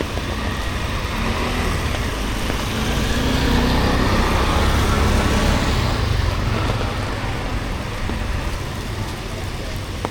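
A motor vehicle passing on a wet street, rising to its loudest in the middle and fading away, over steady street traffic noise.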